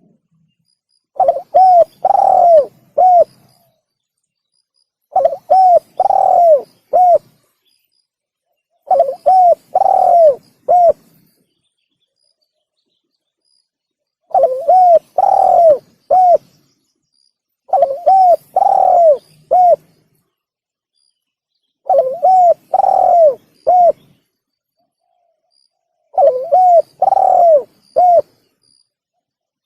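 Spotted dove (tekukur) cooing: a phrase of about four notes repeated seven times, roughly every four seconds. It is a recorded lure call used to attract doves.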